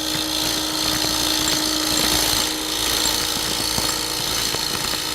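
Bowl gouge cutting a spinning maple lid blank on a wood lathe: a steady, even cutting noise over a faint steady hum from the running lathe.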